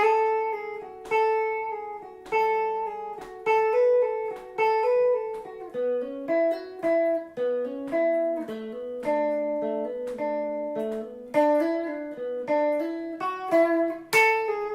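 Electric guitar playing a single-note lead lick: plucked notes, hammer-ons and pull-offs moving between a few pitches at a moderate pace, ending on a sharper strike that is left ringing.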